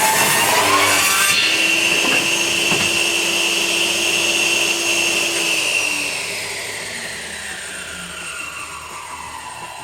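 Power saw cutting through 2x4 timber, the cut ending about a second in. The saw then runs free with a steady whine and, about six seconds in, winds down with a falling pitch.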